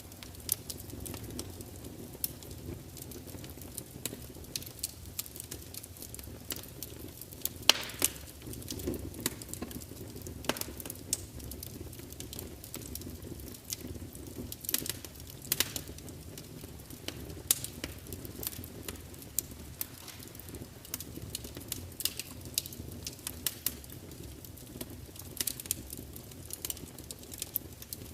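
Wood fire burning in a large fireplace: a steady low rumble of flames with irregular sharp crackles and pops of burning logs, one louder snap about eight seconds in.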